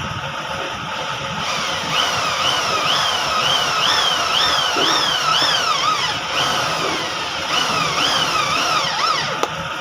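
Small electric power-tool motor whining, its pitch swinging up and down about twice a second for most of the stretch.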